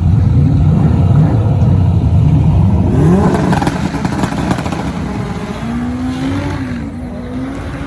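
LS V8 engine of an S-chassis drift car running loud, then revving up hard about three seconds in as the car launches and accelerates down the drag strip. A loud rush follows, then the sound drops away, leaving a steady wavering engine note as the car pulls off.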